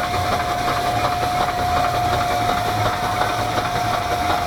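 Showman's steam engine running steadily and driving its dynamo under electrical load, about 110 volts and 180 amps. A constant high whine sits over a low, even pulsing from the engine.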